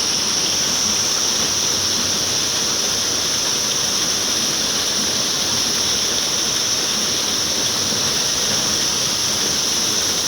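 River water rushing, a steady even noise with no breaks, with a constant high hiss on top.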